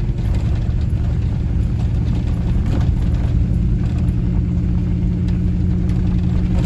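Four-wheel-drive pickup truck driving slowly, heard from inside the cab: a steady low drone of engine and road noise.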